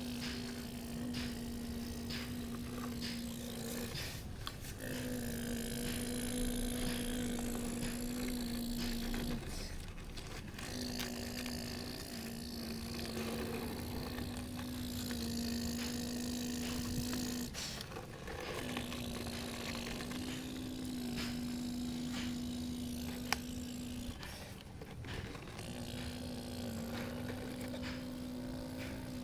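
Radio-controlled model excavator's motor whining steadily as it works, stopping briefly about every five seconds between movements, with scraping and clicking of the model digging.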